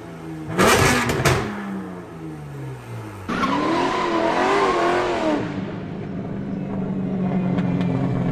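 Porsche GT4 race car engine: the revs fall away with several loud sharp bangs about a second in, then after a sudden cut a wavering, hissy engine note, and from about six seconds a steady lower engine note.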